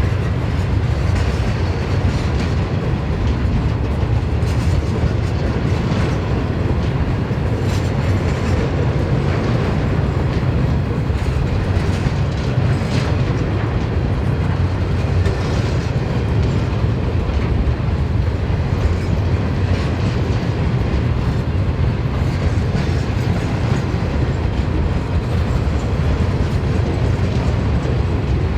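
Train wagons rolling past on the rails, a steady rumble with the clatter of wheels running over the track, unbroken throughout.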